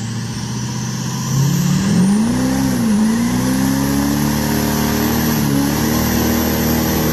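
Turbo diesel truck engine running, then revving up and back down about two seconds in before holding a steady higher idle, with a thin high whine above it.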